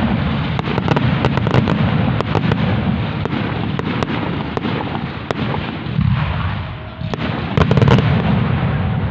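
Fireworks display in a dense barrage: a continuous rumble of shell bursts laced with many sharp cracks and crackles. The loudest bangs come in a cluster about eight seconds in.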